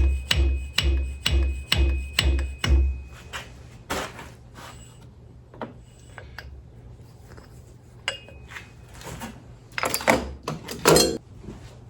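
Universal fork seal driver knocked down a Harley V-Rod fork tube in a quick run of about seven metal knocks, each with a dull thump and a faint ring, driving the new fork seal into its bore. A few lighter clicks follow, then a louder cluster of knocks and clatter near the end.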